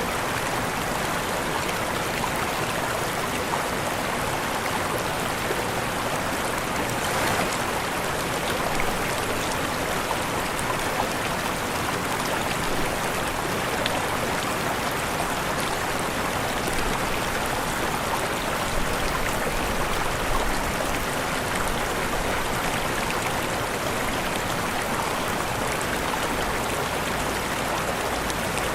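Waterfall, falling water splashing in a steady, unbroken rush.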